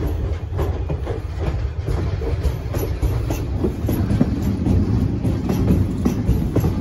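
Ontario Northland passenger coaches and a diesel locomotive rolling past close by: steady wheel-on-rail rumble with irregular clicks and knocks from the wheels.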